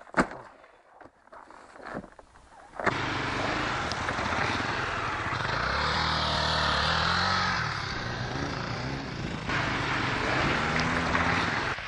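Dirt bike engine running steadily, starting about three seconds in after a few clicks, with a low engine note that rises and falls a little.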